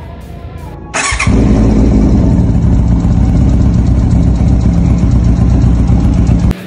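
A 2002 Yamaha YZF-R6's 600 cc inline-four engine starts about a second in, catching at once, then idles steadily and loudly. The sound cuts off suddenly near the end.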